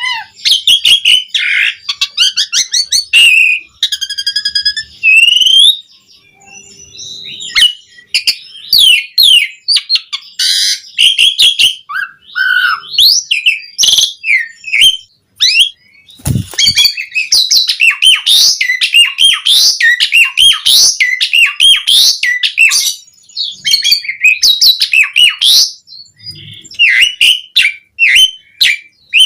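Asian pied starling (jalak suren) singing a fast, varied song of whistles, chatters and squeaky notes. It breaks off briefly a few seconds in, and there is a single low knock about halfway through.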